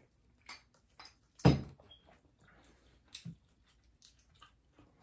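Close-up eating sounds of someone chewing BBQ-sauced chicken: scattered wet mouth clicks and lip smacks. The loudest smack comes about a second and a half in.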